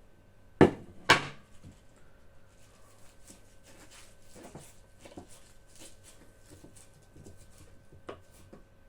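Vegetables being roughly chopped in the kitchen: two loud knocks about half a second apart near the start, then light, irregular clicks and taps, and one firmer knock near the end.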